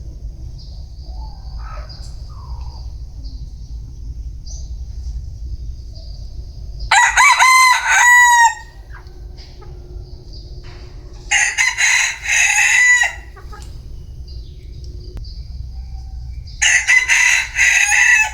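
Vietnamese bantam (gà tre) roosters crowing three times, a few seconds apart, each crow lasting about a second and a half.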